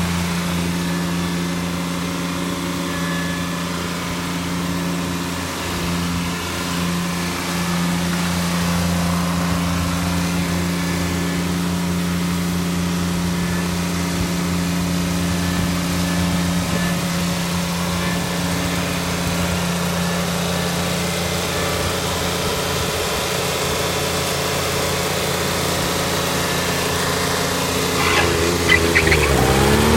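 Kubota D600 three-cylinder liquid-cooled diesel engine on a garden tractor, idling steadily, then speeding up to a higher rev near the end.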